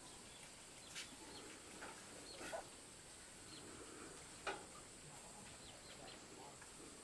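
Quiet background with faint bird chirps and three soft knocks, about one, two and a half and four and a half seconds in, the last one the loudest.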